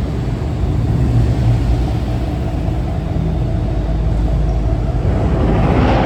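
A car engine running with a steady low rumble, swelling louder and broader near the end.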